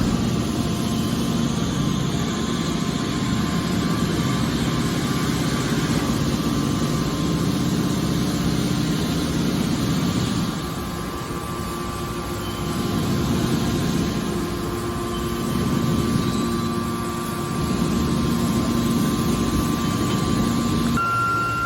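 Hydraulic metal baler running: a steady mechanical drone with a constant whine from its hydraulic power unit, dropping in level for a stretch about halfway through and briefly again a few seconds later.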